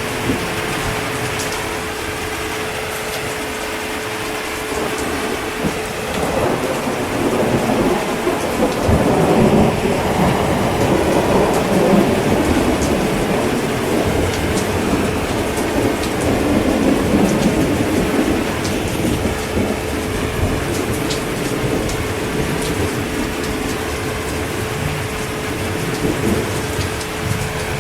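Steady heavy rain with a long rolling rumble of thunder that builds from about six seconds in, is loudest around ten to twelve seconds, and dies away by about twenty seconds.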